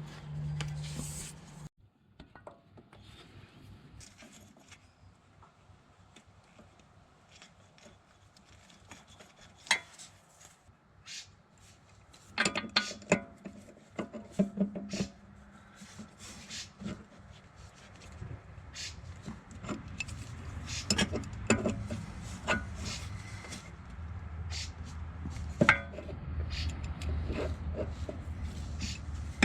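Hand work on a car's brakes: scattered clicks, knocks and scraping of tools and parts. They are sparse at first and come thicker from about halfway through, and a low hum joins in later.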